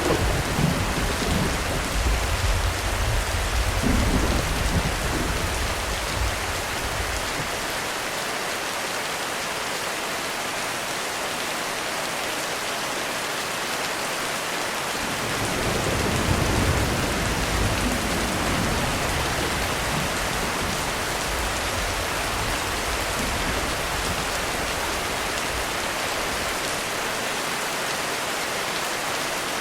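Heavy thunderstorm rain falling steadily, with rolling thunder. A rumble of thunder dies away over the first several seconds, and another low roll builds and fades about halfway through.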